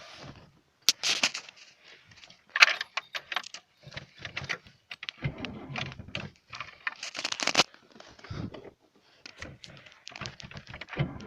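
Keys jangling, with scattered clicks and knocks from handling, coming in irregular bursts.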